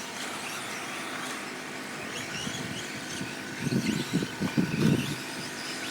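Electric 1/10-scale 4wd short course RC trucks racing on the track, their motors and tyres a steady background of whine and hiss. A louder rough stretch comes about four seconds in and lasts about a second.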